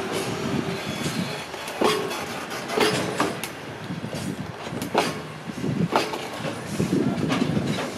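Freight train of container flatcars rolling past at steady speed: a continuous wheel rumble broken by irregular sharp clacks as the wheels cross rail joints, with a few brief faint ringing tones from the wheels.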